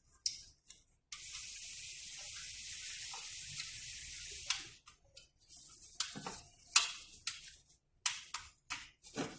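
A steady high hiss, lasting about three and a half seconds, that starts and stops sharply, followed by a run of short clicks and knocks.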